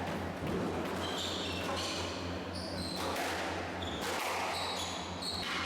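Squash rally: the ball is struck by rackets and hits the court walls several times, amid short high squeaks from shoes on the court floor.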